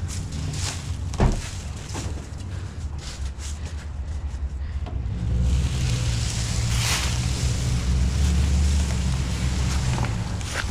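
A vehicle engine running and pulling, getting louder about five seconds in, with wind blowing on the microphone. A single sharp knock sounds about a second in.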